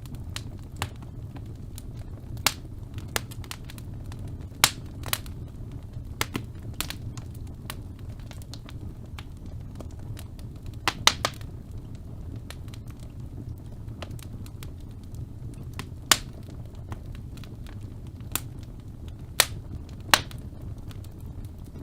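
Wood fire burning in a fireplace: a steady low rumble of the flames with irregular sharp crackles and pops, a few louder snaps scattered through.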